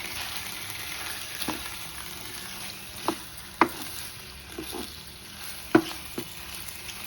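Marinated chicken sizzling as it fries in oil with onions in a pan, while a spatula stirs it, knocking sharply against the pan about five times.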